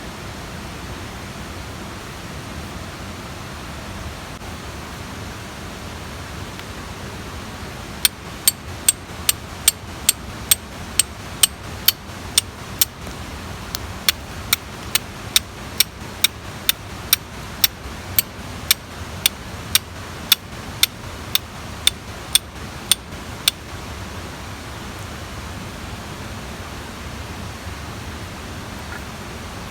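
Steady rushing of a mountain stream. Over it, for about fifteen seconds in the middle, comes a run of sharp, evenly spaced clicks, about two a second, with a brief pause partway.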